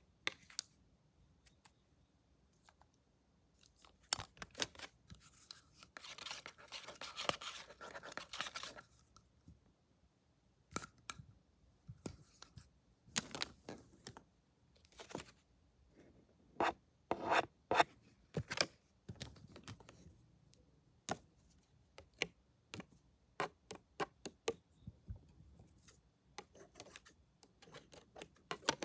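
Scissors snipping in irregular sharp clicks, with a stretch of rubbing, rustling noise about six to nine seconds in.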